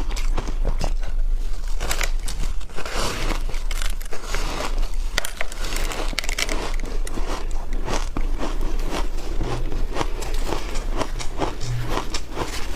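Frozen matcha shaved ice with milk powder being bitten and chewed: a run of many irregular, crisp crunches.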